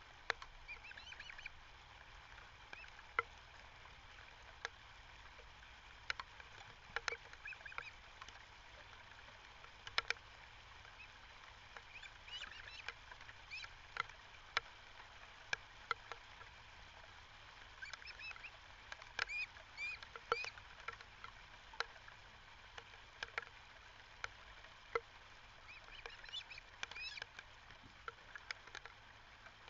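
Birds giving short, high chirping calls in clusters every few seconds, with scattered sharp clicks between them.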